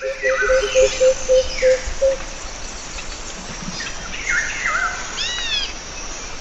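Several birds calling over a steady hiss of rainforest ambience: a quick run of short low hooting notes, about four a second, for the first two seconds, then falling whistled calls and a few arched notes.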